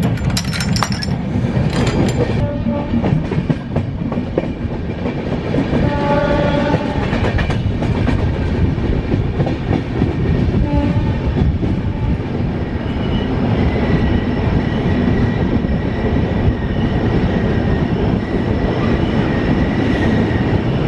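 Passenger train running on the rails with a steady rumble and clatter of the wheels. A train horn sounds briefly about six seconds in, and a steady high whine sets in a little after halfway.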